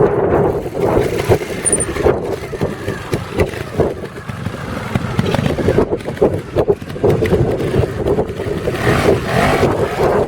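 Trials motorcycle engine running and revved in short irregular bursts, rising more strongly near the end, with wind buffeting the microphone.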